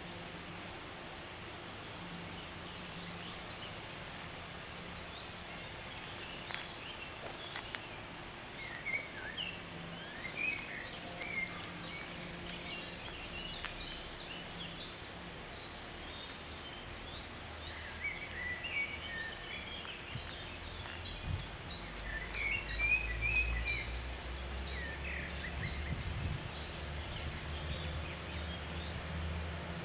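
Birds chirping and calling over steady outdoor background noise, with a fast run of ticks in the middle. A low rumble builds in the second half.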